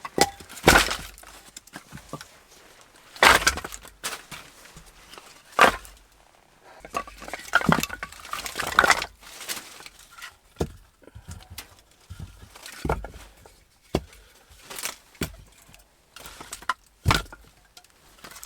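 Firewood being broken up by hand: a series of sharp wooden cracks and snaps at uneven intervals of a few seconds, some of them a little drawn out.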